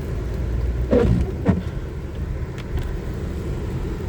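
Road noise inside a car driving slowly, a steady low rumble. Two short, louder sounds break in about a second in and again half a second later.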